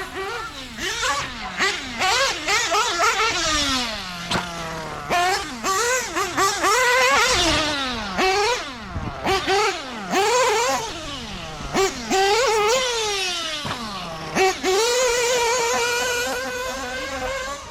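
Nitro engine (Adam Drake 2) of a Mugen MBX-8T RC truggy revving up and down as it drives, its high-pitched whine rising and falling every second or two, with several quick blips on and off the throttle.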